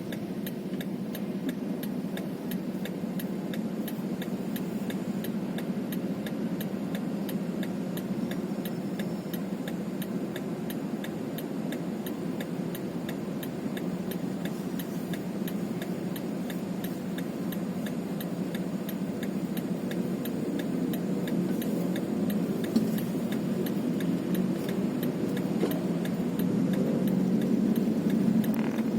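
A road vehicle's engine running steadily while driving, with a fast, even ticking throughout. The engine grows louder over the last several seconds.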